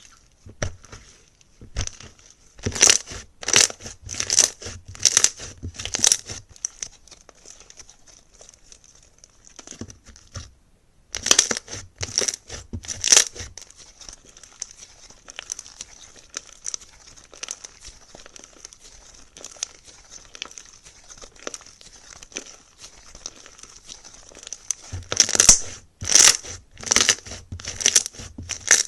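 Slime being pressed and squeezed by hand, crackling and crunching in dense rapid clicks. Louder presses come a bit over once a second early on and again near the end, with a short break in the middle.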